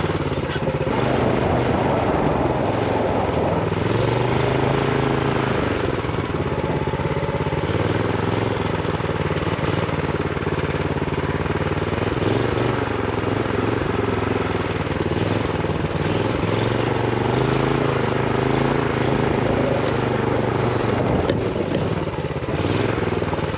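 Honda GX390 single-cylinder four-stroke engine on a minibike running under load while riding, its pitch rising and falling a little as the throttle changes. A throttle stop screw holds its revs down.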